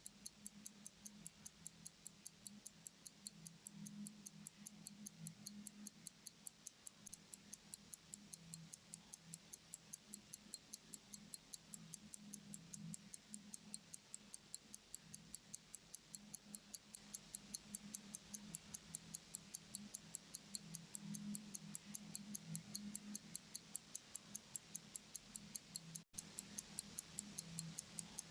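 A 1916 IWC calibre 57 pocket-watch movement ticking steadily, about five ticks a second, as its balance wheel swings. The ticking breaks off for an instant near the end.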